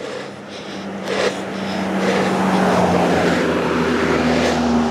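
A car coming along the road, its engine and tyre noise growing steadily louder over about three seconds, with the engine note rising near the end.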